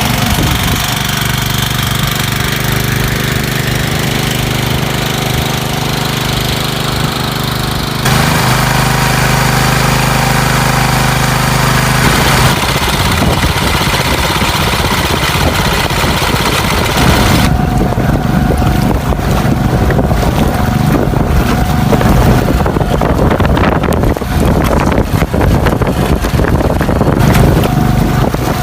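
Fishing boat engine running steadily under way. In the second half it turns rougher, with wind and repeated knocks of the hull against the waves.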